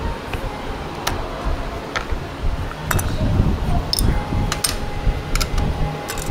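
Several light metallic clinks of hand tools and small metal parts being handled, spaced irregularly, over a steady low rumble. A faint steady whine starts about two-thirds of the way in.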